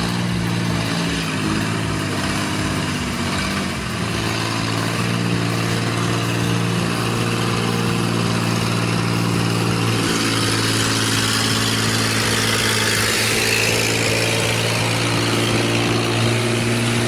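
A large engine running steadily, its pitch shifting slightly about four seconds in, with a rushing noise that grows louder from about ten seconds on.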